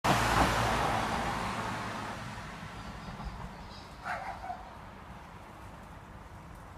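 Outdoor ambience: a loud rush of passing-vehicle noise that fades away over the first few seconds, then a short animal call about four seconds in.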